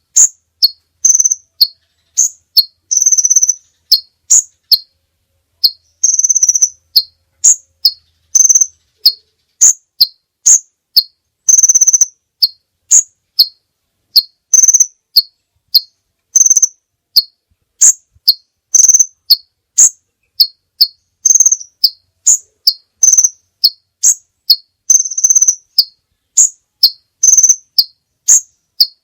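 A caged songbird singing a repeated phrase of short, high, sharp chirps, a few notes stepping down in pitch, over and over with brief gaps between.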